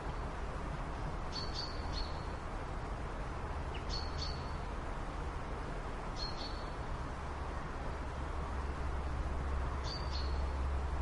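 A bird's short high chirp, repeated four times at intervals of two to three seconds, over a steady low hum and constant background noise.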